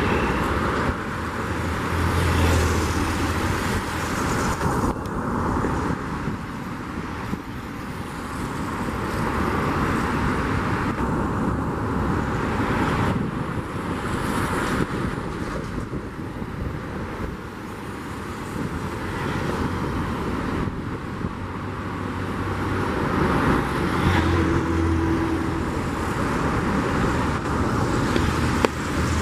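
Outdoor vehicle noise, a steady rush that swells and fades slowly, with a brief low hum twice.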